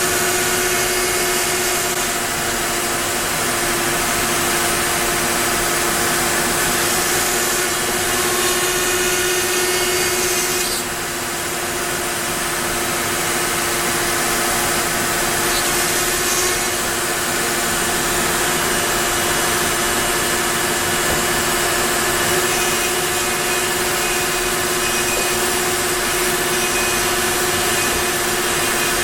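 Onefinity wood CNC router cutting wood: a steady spindle whine over the continuous noise of the bit working the wood, with a brief dip in level about eleven seconds in.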